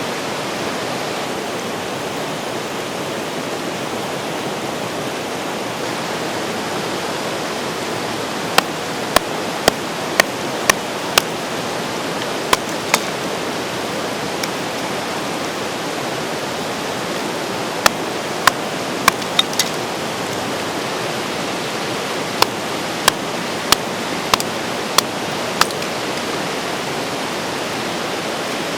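Steady rush of a flowing river. From about eight seconds in, several runs of sharp knocks come over it, about two a second, each run a handful of strikes long.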